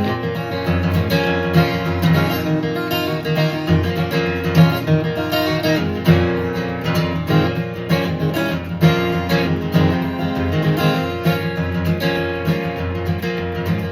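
Instrumental break of a country song: acoustic guitar strumming and picking, with bass notes underneath, no singing.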